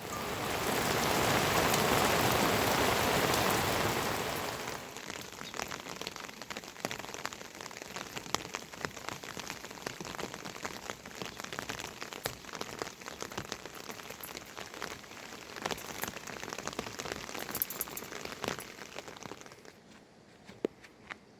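Rain falling, heavy and loud for the first four seconds or so, then lighter, with many separate drops ticking on a surface, and dying away near the end.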